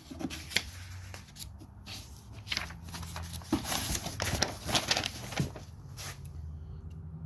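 Rustling and handling noises: a run of quick scrapes, rubs and light taps, busiest in the middle, over a low steady hum.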